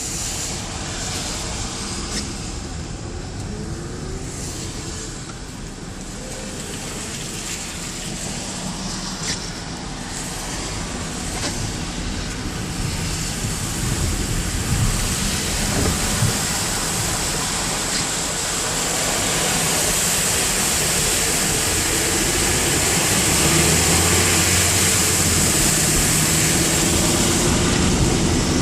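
Road traffic on a flooded highway: vehicles passing with tyres hissing through standing water. The hiss grows louder over the second half.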